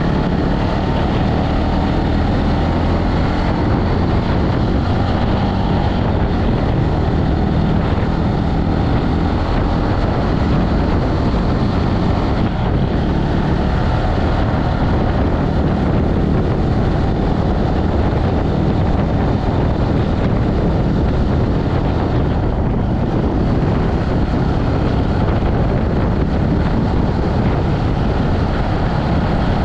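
Steady wind rumble on the microphone of a moving motorbike, with the bike's engine running underneath.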